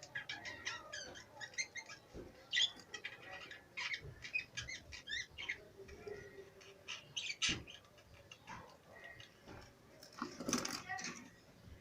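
Many caged pet birds chirping busily in quick, overlapping calls, with a louder noisy burst about ten and a half seconds in.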